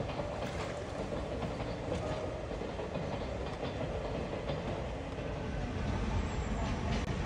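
Sagano sightseeing trolley train (torokko) running along the track across the river, a steady rumble with the wheels clacking over the rail joints.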